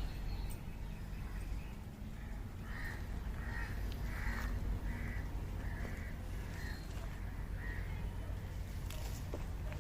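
A crow cawing about seven times in an even series, over a steady low rumble.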